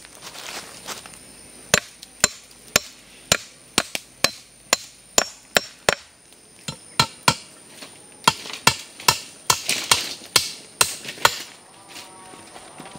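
Repeated sharp chopping blows, about two a second, starting about two seconds in and stopping near the end.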